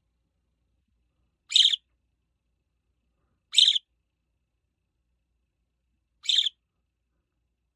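Budgerigar giving three short, high chirps, two to three seconds apart.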